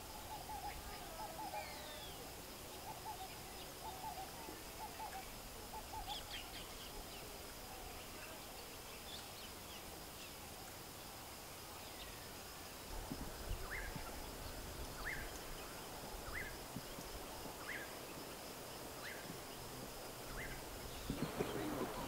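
Wild birds calling: a warbling phrase in the first few seconds, then a series of short, sharp notes about one a second through the second half, over a steady high-pitched whine. Near the end it gives way to louder, rougher outdoor sound.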